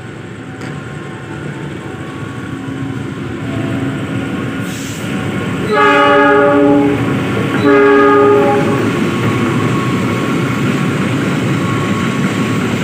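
A train approaching, its running noise growing louder, with two blasts of its multi-note air horn about halfway through, each about a second long.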